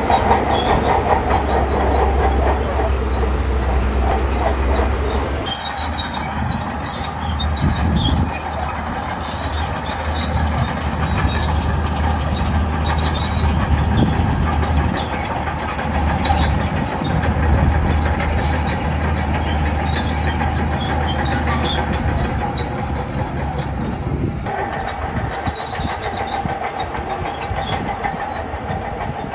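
Shantui crawler bulldozer working: a diesel engine running steadily under load, with the metal rattle and clatter of its steel tracks. The sound changes abruptly about five seconds in and again near the end.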